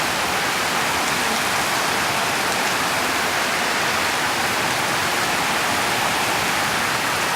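Heavy wind-driven rain in a storm, a loud steady rushing hiss with no let-up.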